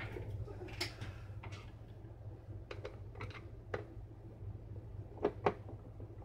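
Scattered small clicks and taps of a Wahl hair trimmer's plastic housing and parts being handled and opened up for repair, over a faint steady low hum.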